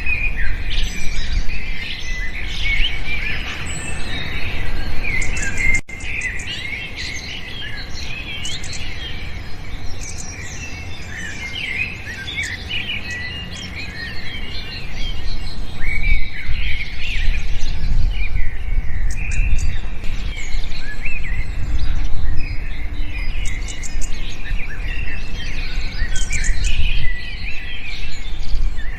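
A chorus of many small birds chirping and twittering together, with dense overlapping short calls and quick pitch slides, over a steady low rumble. The chorus thins a little for several seconds after a brief dropout about six seconds in, then grows busy again.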